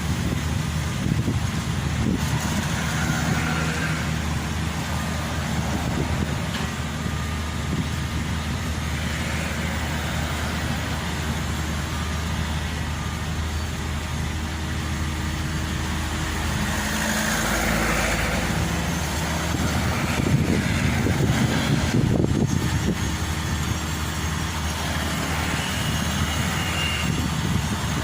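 Maxxi Bimo 102 combine harvester's diesel engine running steadily under load as the machine is driven, growing somewhat louder about two-thirds of the way in.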